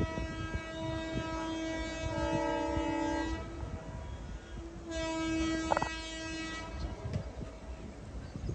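Indian Railways locomotive horn sounding two long blasts as trains approach a level crossing: the first ends about three and a half seconds in, and the second starts about five seconds in and lasts under two seconds. The horn is a chord of several steady tones.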